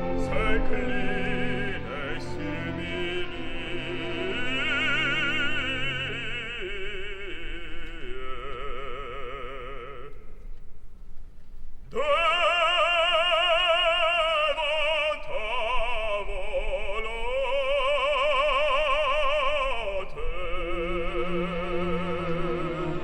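Background operatic music: a singer holding long notes with wide vibrato over orchestral accompaniment. The music drops away briefly about halfway through, then a loud sustained sung passage follows.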